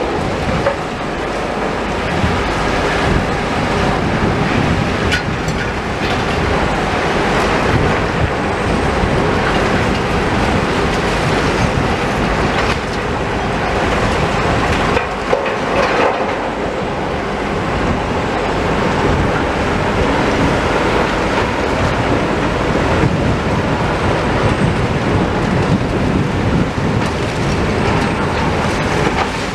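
Heavy demolition machinery working at close range: diesel engines running under a continual dense clatter and rumble of rubble being handled, with a short lull about halfway through.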